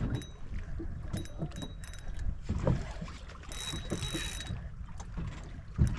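Wind rumbling on the microphone aboard a small boat in rough water, with scattered knocks and clicks and a brief hiss about three and a half seconds in.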